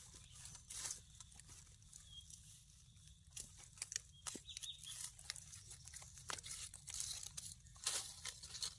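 Faint scattered rustles, clicks and snaps, with a couple of faint short high chirps.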